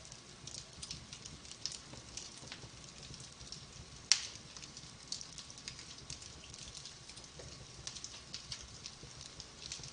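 Wood fire burning in a fireplace, crackling with many small irregular pops and one loud pop about four seconds in.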